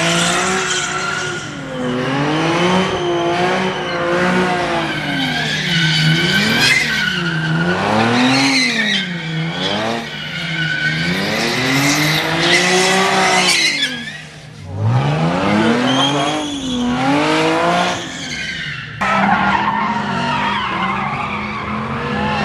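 Car engine revving up and down in repeated swells while the tyres squeal and skid, as in a burnout or donuts, with a brief drop in the noise about two-thirds of the way through.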